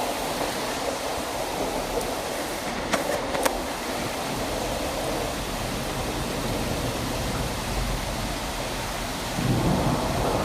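Heavy rain falling steadily, with two sharp clicks about three seconds in and a low rumble building near the end.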